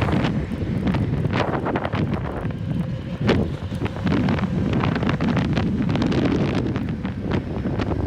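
Heavy wind buffeting the microphone of a rider moving along on an electric unicycle, with many small knocks and clicks scattered through it.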